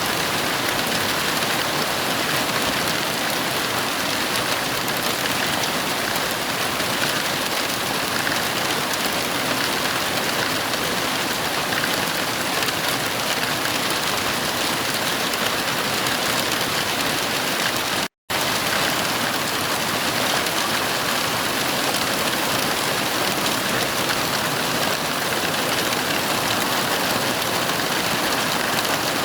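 Steady heavy rain falling, an even dense hiss with no thunder, broken once by a split-second dropout to silence about two-thirds of the way through.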